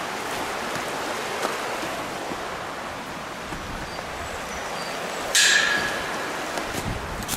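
Steady rushing of a mountain stream, with one short, sharp, louder sound a little over five seconds in.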